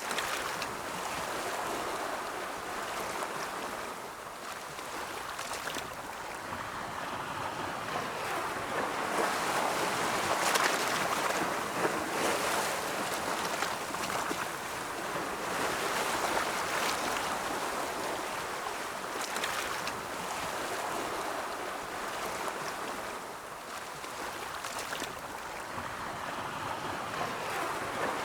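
Ocean surf rolling in: a steady rush of breaking waves that swells and eases every several seconds.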